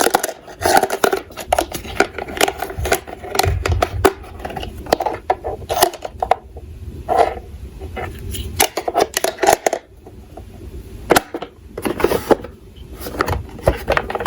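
Irregular clicking and clattering of small hard toy cars being handled and knocked against each other and a hard surface, with a low rolling rumble at times.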